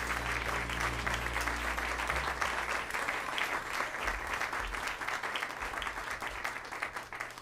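Audience applauding at the close of a song, with the band's last low notes dying away in the first couple of seconds. The clapping thins out near the end.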